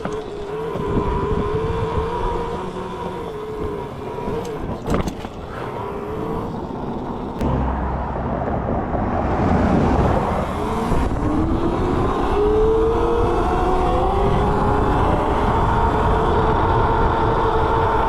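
Electric mini bike's motor whining while riding, over road and wind noise. The whine dips about halfway through and then climbs steadily in pitch as the bike speeds up.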